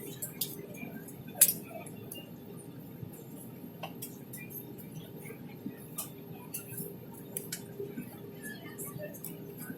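Steady hum of an airliner cabin around takeoff, with scattered light clicks and rattles; one sharper click comes about a second and a half in.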